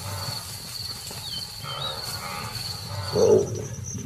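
Night savanna ambience: insects trilling steadily with the odd short chirp, and a loud animal call about three seconds in. The trill jumps higher in pitch just after the call.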